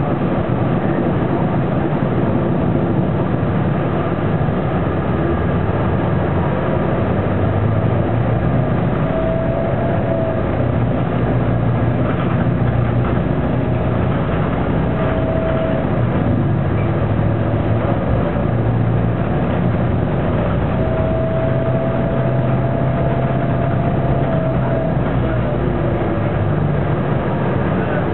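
Detroit Diesel Series 50 inline-four diesel and Allison B500R transmission of a Neoplan AN460 articulated bus running steadily under way, heard from inside the rear of the passenger cabin. A faint whine rises and fades a few times, about ten, fifteen and twenty-one seconds in.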